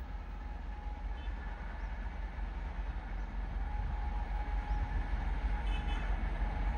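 Indian Railways express passenger train running away down the line: a steady rumble of its coaches on the rails that grows a little louder in the second half.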